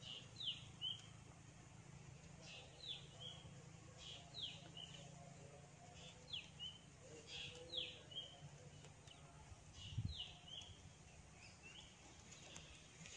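A bird calling over and over, faint: each phrase a quick falling note followed by a short higher one, repeated every couple of seconds. A low steady hum runs underneath, with a single soft thump about ten seconds in.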